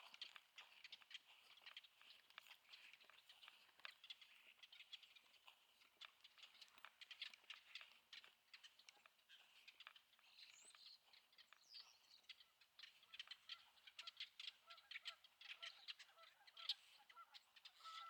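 Faint crunching footsteps on a gritty sand and gravel trail, as a stream of small crackling clicks. From about two-thirds of the way in, distant waterbirds give short, repeated honking calls, with a couple of high chirps in the middle.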